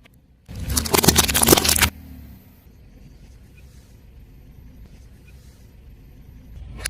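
A car tyre rolling over and crushing crunchy objects: a dense burst of crackling and snapping lasting over a second, starting about half a second in and cutting off sharply. A low rumble of the car's tyres and engine runs underneath and carries on more quietly afterwards.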